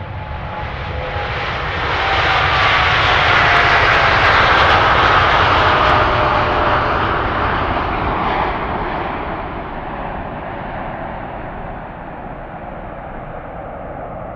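Jet airliner passing by, its engine noise swelling to a peak a few seconds in and then fading, with a whine that falls in pitch as it goes past.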